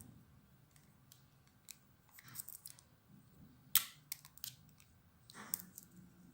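Scissors cutting small craft material: a scatter of sharp snips and clicks with brief rustling scrapes, the loudest snip near the middle.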